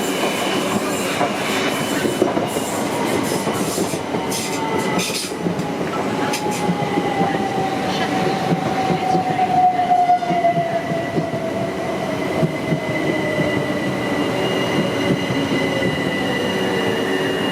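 A train running through the station: steady rail noise with a few sharp wheel clicks in the first seconds, a thin steady high squeal, and a whine that slowly falls in pitch over the second half.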